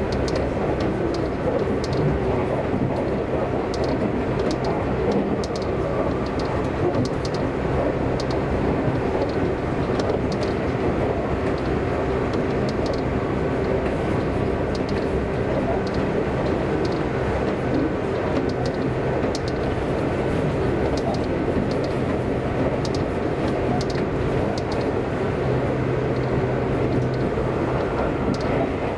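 Seibu Railway electric commuter train running steadily between stations, heard from inside the car: a constant rumble of wheels on rail under a steady motor hum, with faint light ticks.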